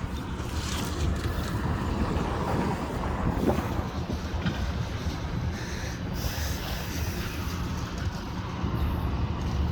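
Large diesel engine idling steadily, a constant low hum.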